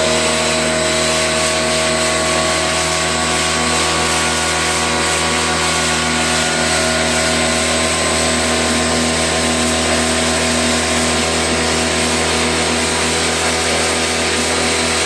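A motor-driven machine running steadily, a constant hum with hiss that does not change.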